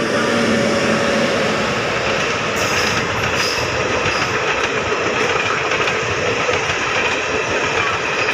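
Train running past at speed, hauled by a WAG-9 electric locomotive: a steady, loud rolling noise of steel wheels on rails with faint clickety-clack. It is loudest in the first second or so as the locomotive goes by, then continues as the coaches pass.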